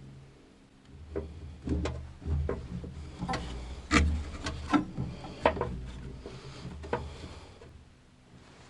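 Irregular knocks, taps and scraping from handling tools and parts while working on a furnace, over a low hum; it quiets near the end.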